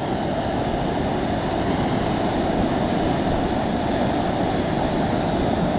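Floodwater pouring over the open floodway gates: a steady, heavy rush of falling water.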